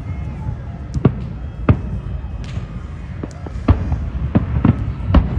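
Fireworks shells bursting: a string of about eight sharp bangs at uneven intervals, over a steady low rumble.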